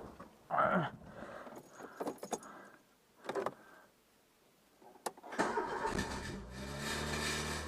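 Keys rattling and a few clicks, then the Renault 11's cold engine starting about five and a half seconds in and running steadily. The unexplained engine noise is still present, which was put down to the water pump or an accessory-belt pulley bearing.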